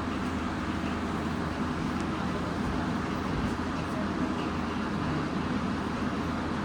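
Interior noise of a Nagoya Municipal Subway 2000-series train car: a steady rumble that holds level, with no rising or falling pitch.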